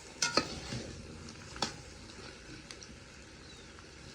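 A few sharp clinks of cooking utensils against a pot, a quick cluster near the start and one more at about a second and a half, over a faint steady background.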